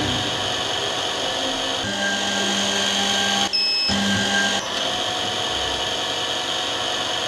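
Small electric drill motor of a digital lens drilling machine running steadily with a whine while holes are drilled in eyeglass lenses. The sound dips briefly about halfway through.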